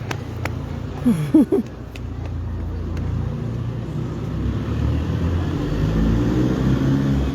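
A car's engine rumble that grows louder through the second half. About a second in there are a few short wavering cries.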